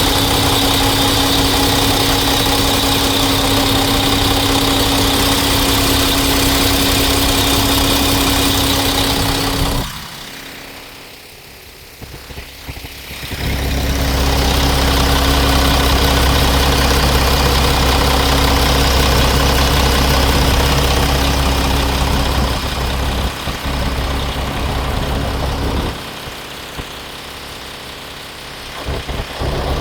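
A 2007 Mack truck's diesel engine running steadily. About ten seconds in the sound drops away sharply and comes back about three seconds later, and it dips again for a few seconds near the end.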